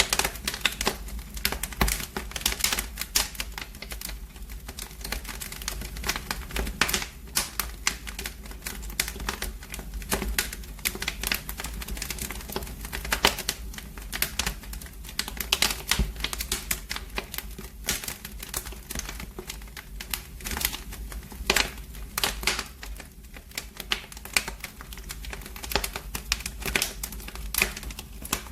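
Wood fire in a fireplace crackling, with dense irregular snaps and pops over a steady low rumble.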